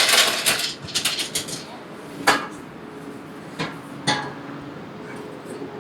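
Metal clanking of tools and exhaust parts: a rattle, a run of small clicks, then three separate sharp metallic strikes that ring briefly.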